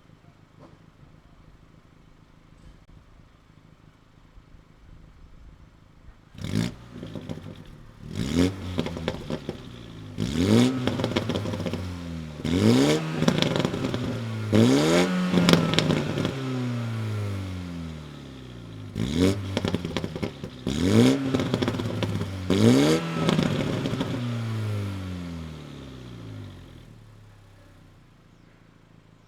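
2021 Mini Cooper S (F56) turbocharged four-cylinder idling quietly, then blipped about eight times starting some six seconds in. Each rev rises and falls, with exhaust pops and crackles on the overrun from a pops-and-bangs tune, OPF delete and free-flow midpipe. It drops back to idle near the end.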